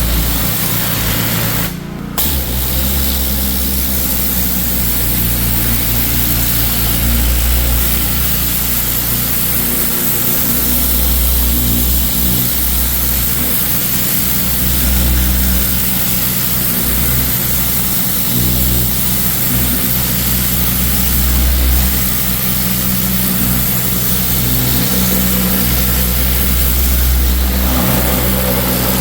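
Pressure washer running: a steady engine drone under the hiss of the high-pressure water jet as it blasts grease off a truck bed. Everything dips briefly about two seconds in, then runs steadily on.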